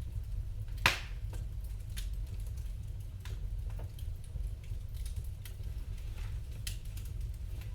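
Wood fire in a fireplace crackling: scattered small snaps over a steady low rumble, with one much louder sharp pop about a second in.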